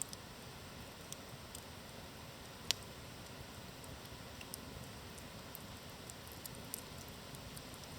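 Wood campfire crackling: scattered small pops over a soft steady hiss, with one sharp crack a little under three seconds in.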